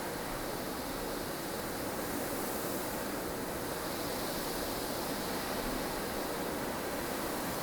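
Blustery snowstorm ambience: a steady rush of strong wind, swelling and easing slowly.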